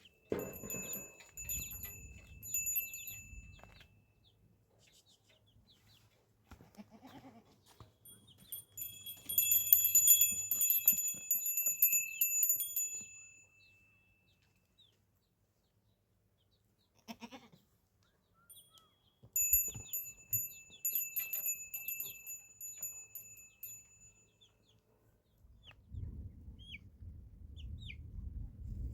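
Small metal bells on goats jingling in three bouts as the animals move, with a low rustling near the end.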